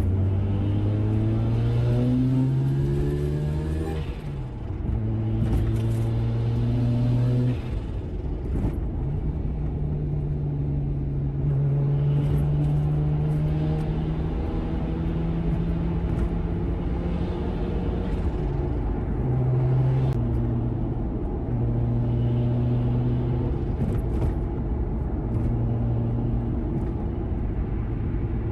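Turbocharged 13B twin-rotor rotary engine of a Mazda FD RX-7 running through a Dolphin muffler, its revs rising in the first few seconds and then held at several steady speeds that step up and down.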